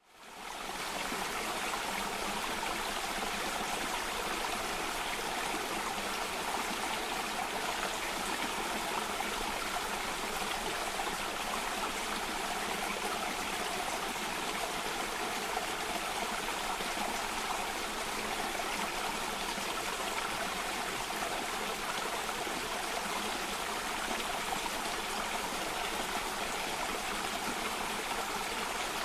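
Water running over a small cascade, a steady rushing and trickling; it fades in from silence at the very start.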